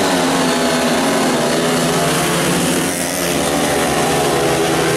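Several speedway motorcycles with 500 cc single-cylinder engines running hard together as they race, a steady engine drone of several tones that waver slightly in pitch.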